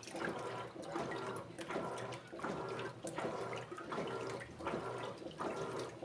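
Electrolux Essential Care 14 kg (LED14) washing machine in its wash cycle, its agitator swishing the water and clothes back and forth with a regular stroke a little more than once a second.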